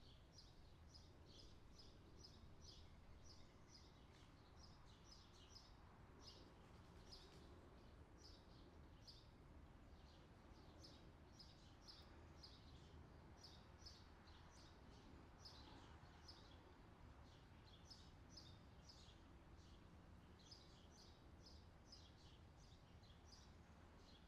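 Faint outdoor summer ambience: small birds chirping in quick, repeated clusters over a low steady rumble.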